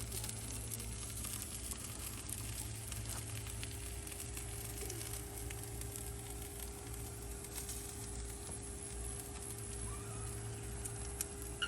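Faint crackling of barbecue ribs cooking on a grill over a steady low hum.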